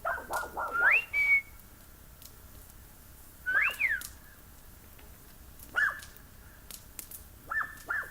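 A person whistling: a run of four quick notes ending in a rising slide, then a few single whistled notes spaced a couple of seconds apart.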